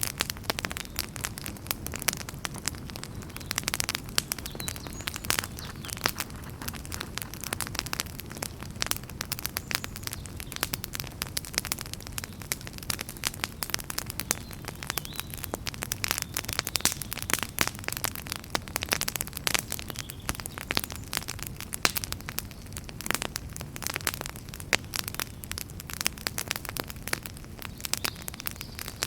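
Wood fire in a fireplace crackling: dense, irregular sharp pops and snaps over a steady low rumble of flames.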